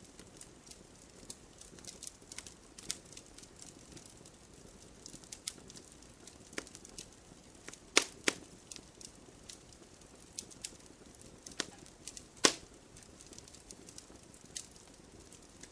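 Wood fire crackling: scattered sharp snaps and pops over a low, soft rush of flame, with a few louder pops about halfway through and again about three-quarters of the way in.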